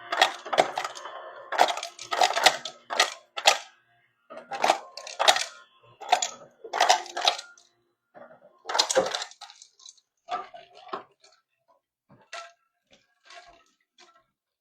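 Irregular clattering and knocking of hard objects being handled, some knocks with a short ring; dense at first, then sparser and fainter over the last several seconds.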